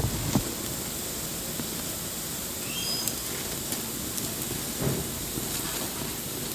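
Wood bonfire burning with a steady hiss, with sharp crackles and pops at the start and again about five seconds in. A brief high whistle sounds about three seconds in.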